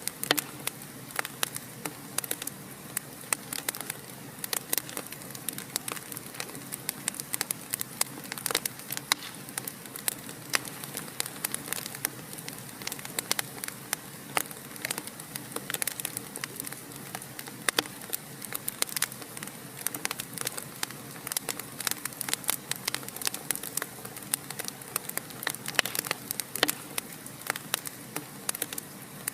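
Wood fire crackling: a stream of irregular sharp pops and snaps over a steady hiss.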